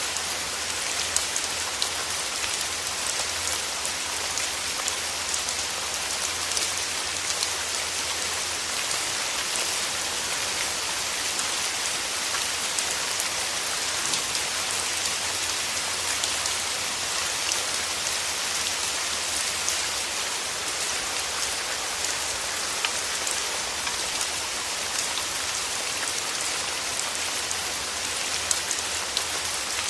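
Steady rain falling on rose petals, a dense even hiss with many close individual drops heard as small ticks, over a faint low hum.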